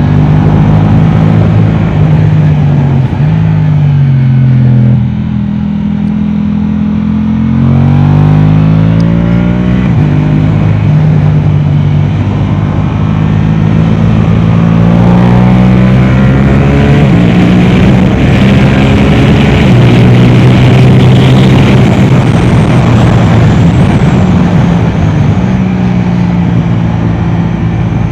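Yamaha R7's parallel-twin engine through an Akrapovic exhaust, ridden hard on a track. Its note climbs and drops again and again, with sudden steps in pitch, under a steady rush of noise.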